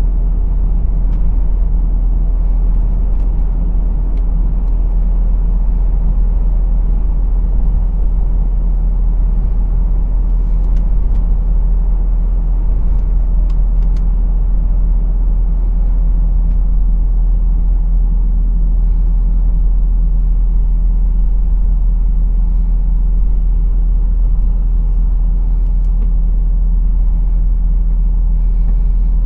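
Lorry's diesel engine and road noise, a steady low rumble with an even engine drone.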